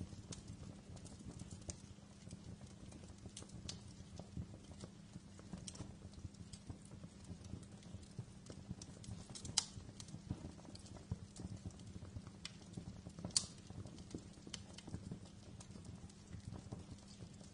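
Wood fire crackling in a fireplace: a steady low rumble under scattered sharp pops and snaps, the two loudest about nine and a half and thirteen seconds in.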